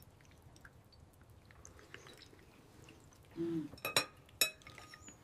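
Faint, scattered clinks and ticks of a dog's food bowl at dinner, with a brief low tone a little past halfway and a few sharper clicks after it.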